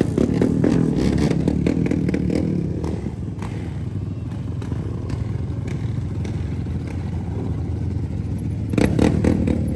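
Motorcycle engine running steadily at a low rumble, with clicks and clatter near the start and again about nine seconds in.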